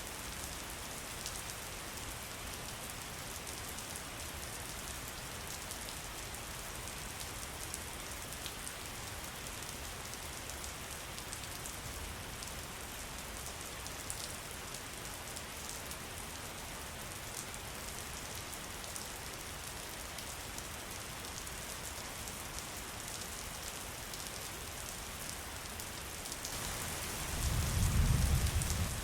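Steady rain with a fine patter of individual drops, then a low rumble of thunder that swells and fades near the end.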